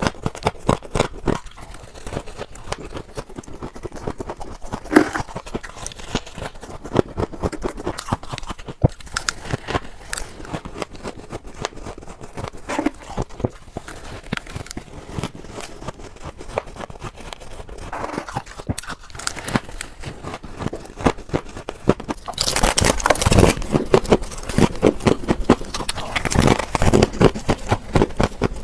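Close-up crunching and chewing of refrigerator frost ice: a dense run of sharp, crackly crunches, growing louder and busier about three quarters of the way through.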